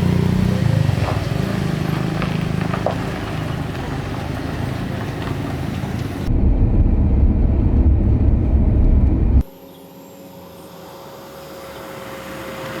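Motor vehicle engine and road noise on the move, in several clips joined by sudden cuts; about two-thirds of the way through it drops to a quieter stretch with a steady hum.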